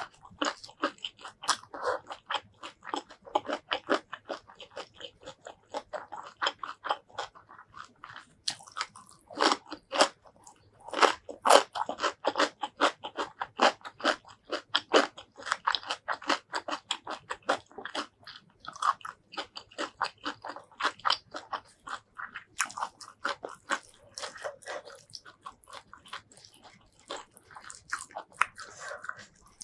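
Close-miked chewing of a mouthful of food, with many short crunches and wet clicks in quick succession.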